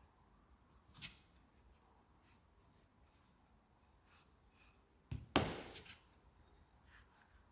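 Wooden pieces knocking together in a few light, separate knocks, the loudest a double knock about five seconds in, with faint rubbing and ticks between them.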